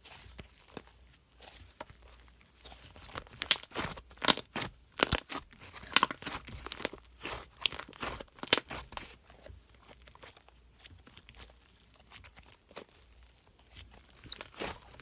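Slime being squished and poked by hand, giving a run of sharp sticky crackles and pops that come thickest and loudest in the middle.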